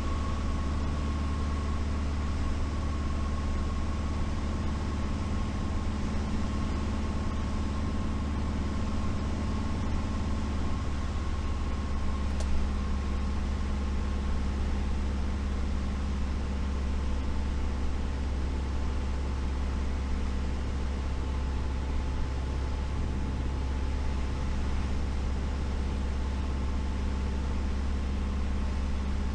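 Light single-engine propeller plane's piston engine droning steadily, heard inside the cockpit, with one short click about twelve seconds in.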